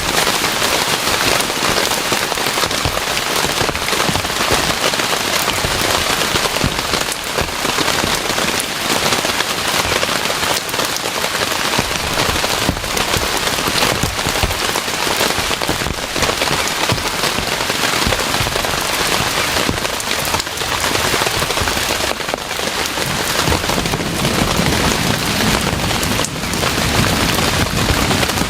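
Heavy rain falling steadily, with dense drops pattering on a surface.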